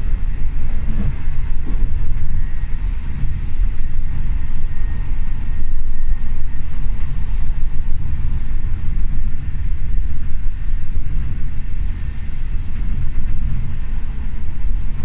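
Old train running, heard inside the carriage: a loud, steady low rumble from the wheels and running gear, with a stretch of high hiss about six seconds in.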